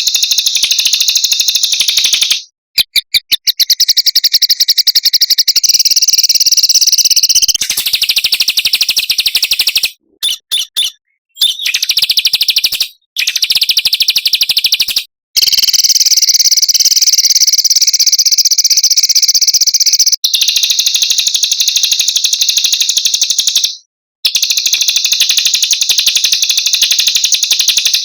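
Small songbirds singing fast, high-pitched rolling trills with sharp chattering notes, broken by several brief pauses.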